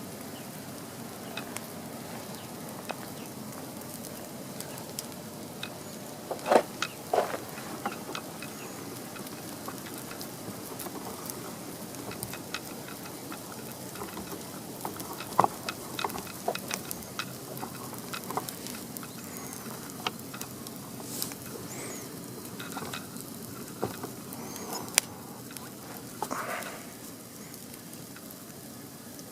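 Campfire burning, with a steady hiss and scattered crackles and pops. A few louder snaps come about six to seven seconds in and again about fifteen seconds in.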